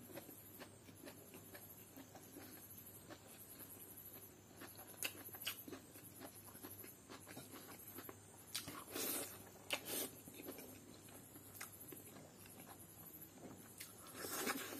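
A man chewing and smacking his lips as he eats fried rice, faint and intermittent, with a couple of short louder mouth smacks a little past the middle.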